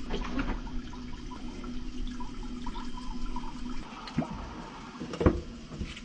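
Water rushing through a just-cleared drain line, the roots and paper clog removed, with small clicks and one sharp knock about five seconds in.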